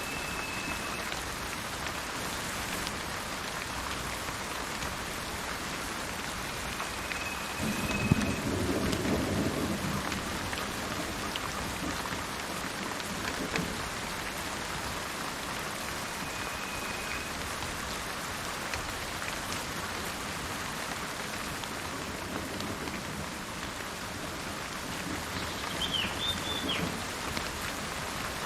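Steady rain falling, with a low rumble of thunder about eight seconds in and a weaker one near the end. A bird gives a few short, even-pitched whistles and a quick chirp near the end.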